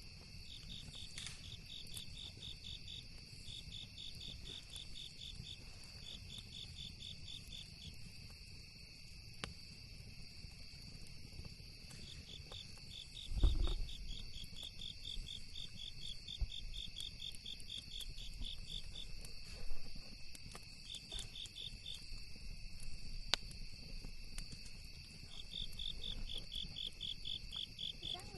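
Night insects chirping in repeated trains of rapid high pulses over a steady high-pitched insect drone, with scattered small crackles from a campfire. A dull thump about halfway through is the loudest single sound.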